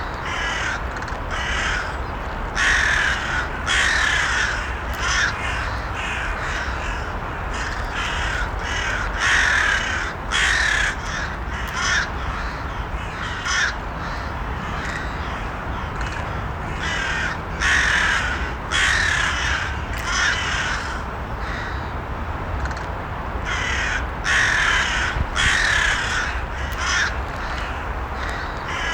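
Crows cawing repeatedly, with short harsh calls coming in irregular runs of one to three every second or few seconds, over a steady low background noise.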